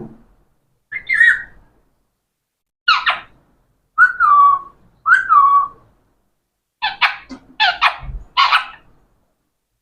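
Pet parrot calling: short whistled calls about a second apart, several gliding downward, then a quick run of harsh squawks near the end.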